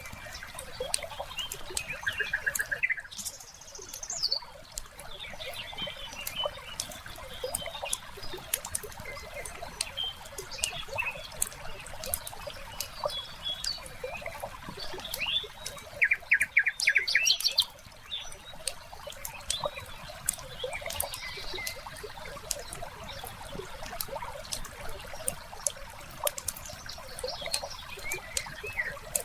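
Wood fire crackling with constant small snaps and pops, while birds call over it; a bird gives a short rapid trill early on and a louder one a little past halfway.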